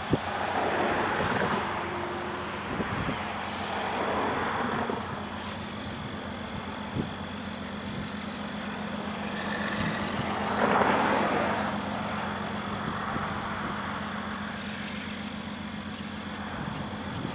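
Steady low hum of diesel locomotive engines running, with broad swells of noise rising and falling a few times.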